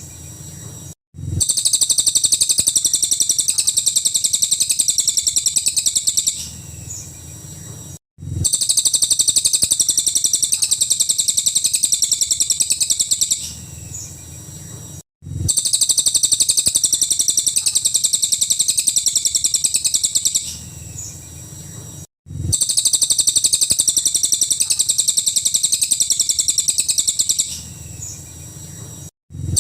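Cililin bird song in full 'tembakan' style: a rapid, high stream of sharp repeated notes lasting about five seconds. Each run is followed by a quieter stretch and a brief cut, and the phrase repeats about every seven seconds as a loop.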